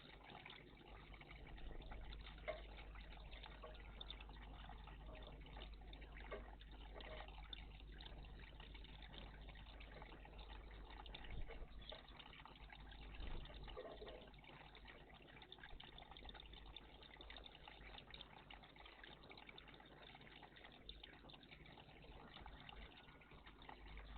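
Faint, steady trickling of water in a garden bird bath, over a low steady hum.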